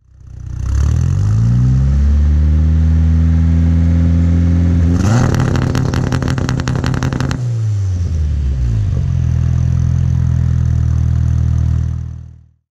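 Turbocharged VW AP 1.9 four-cylinder engine heard at the exhaust, settling into a steady idle. About five seconds in it is held at higher revs for a couple of seconds with a rapid string of crackling pops, then drops back to idle.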